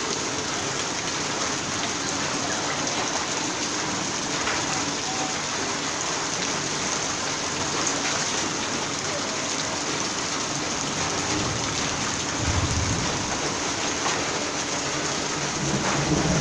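Heavy rain pouring down steadily in a dense even hiss, with a brief low rumble about three-quarters of the way through.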